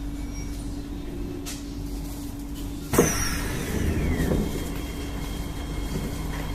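Stationary C151A MRT train humming steadily at the platform, with one sharp loud clank about three seconds in followed by a falling whine and a short spell of rumble.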